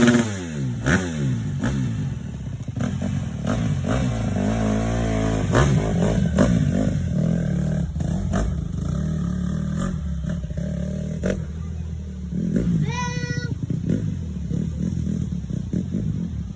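Dirt bike engine running, falling off from a loud rev at the start and revving up and back down again a few seconds in, with scattered clicks and knocks. A short high-pitched tone sounds about thirteen seconds in.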